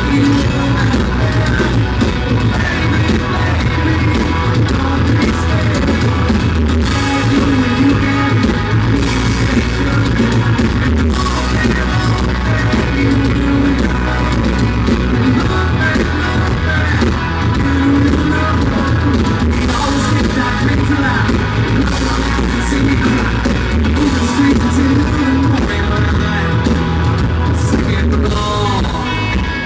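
Live country-rock band playing with a sung lead vocal over drums, bass and guitar, in a poor, muddy recording.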